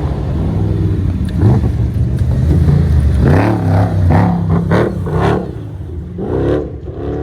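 Car engine running with some revving, dying away about five and a half seconds in, with indistinct voices over it.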